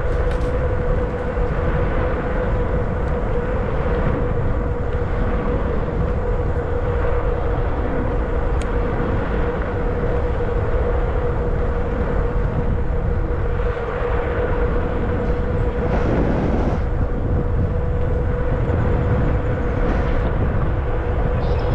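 Zota Zephyr 20-inch fat-tire e-bike cruising at about 22 mph in pedal assist 6: a steady whine from the drive and tyres, over a heavy wind rumble on the microphone. A brief swell of noise comes about 16 seconds in.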